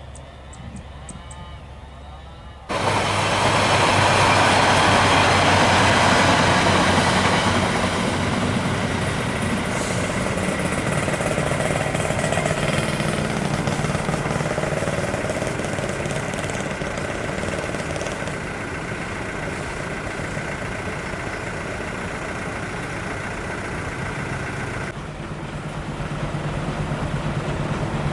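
Train passing at speed: a loud, dense rumble of wheels on rails with the diesel locomotive's engine. It starts abruptly about three seconds in, is loudest for the first few seconds, then runs on steadily, with a lower, even pulsing near the end.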